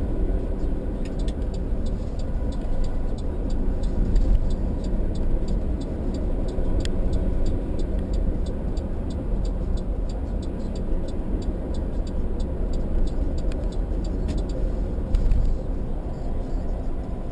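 Car cabin road noise while driving: a steady low rumble of tyres and engine. Over most of it runs a light, regular ticking of about three ticks a second.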